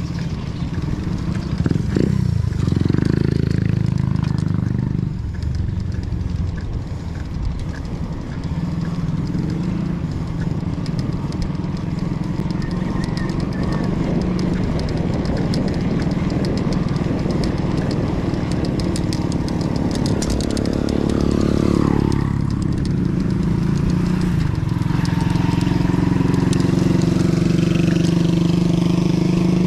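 A vehicle engine running while on the road, its pitch rising and falling with speed, with a clear drop in pitch a little past two-thirds of the way through as it slows or changes gear.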